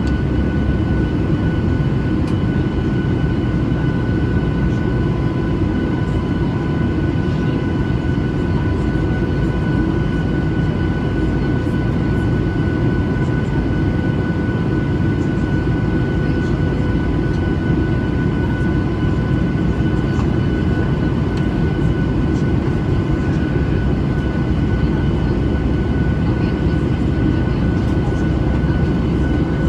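Steady cabin noise of a Boeing 737-800 in flight: a dense low rumble of airflow and its CFM56-7B turbofan engines, with a few thin, steady high-pitched tones on top.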